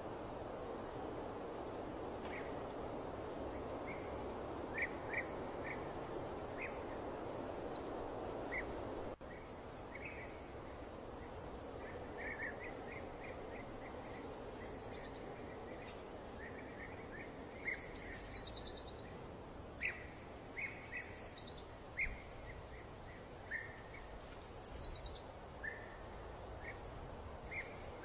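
Birds chirping, with many short chirps and repeated quick downward-sweeping calls that come more often toward the end. For about the first nine seconds a steady rushing noise lies under the chirps, then cuts off abruptly.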